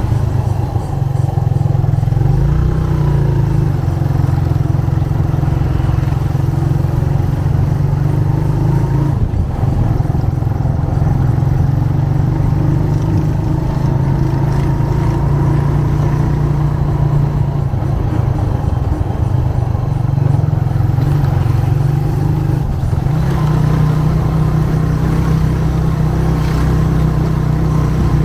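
Motorcycle engine running steadily as the bike rides along, its note rising and falling a little.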